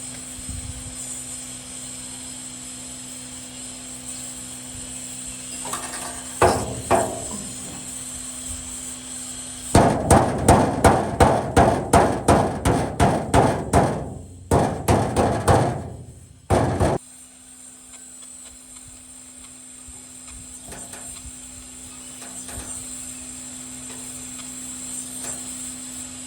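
Hammer striking metal: a couple of blows, then a quick steady run of about three strikes a second for several seconds, a few more, and it stops abruptly.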